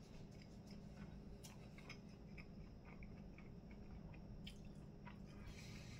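Faint chewing of a breaded chicken nugget: soft mouth clicks and smacks scattered throughout, a few sharper ones, over a steady low room hum.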